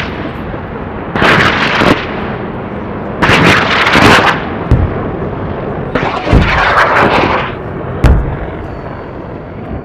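Battle sound effect: a series of heavy blasts like artillery fire or explosions, about one every two seconds, over a continuous rumble, with a sharp crack near the end.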